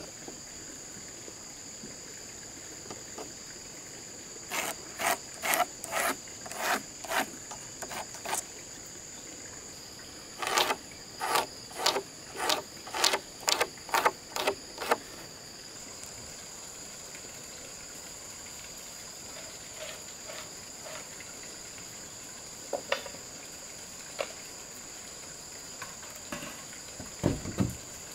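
Steady high chirring of crickets throughout. Over it come two runs of sharp knocks at about two a second, tool blows on wood, with a few single knocks near the end.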